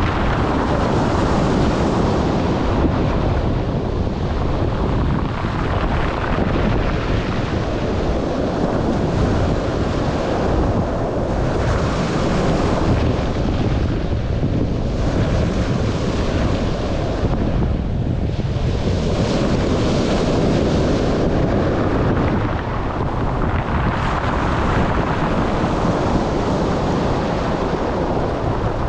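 Black Sea surf breaking on the shore, swelling and falling with each wave every few seconds, with strong wind rumbling on the microphone.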